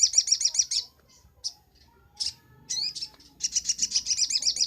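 Sogok ontong (little spiderhunter) singing: a rapid, high trill of sharp repeated chirps, about ten a second. It breaks off just under a second in, a few single notes follow, then a sweeping call, and a second trill starts about three and a half seconds in.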